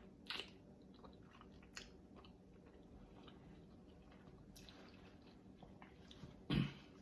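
A person chewing a mouthful of boiled egg close to the microphone, with a few sharp mouth clicks and one louder thump near the end.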